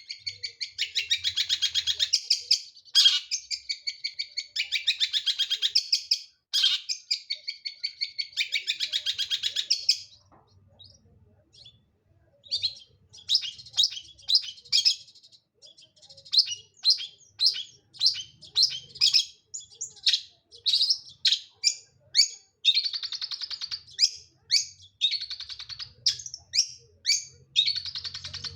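Long-tailed shrike singing: long rapid, buzzy chattering phrases for the first ten seconds, a brief pause, then a string of short sharp notes about twice a second broken by two more buzzy bursts near the end.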